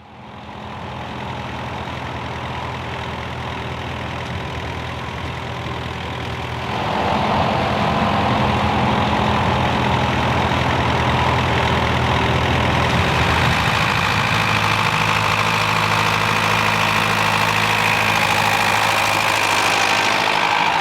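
Vintage David Brown tractor engine running steadily, fading in at the start. It gets louder about seven seconds in, and its tone shifts about halfway through.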